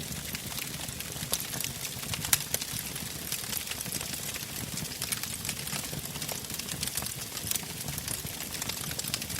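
Wood fire burning in a fireplace: a steady low rumble of flames with irregular sharp crackles and pops, one louder pop a little over two seconds in.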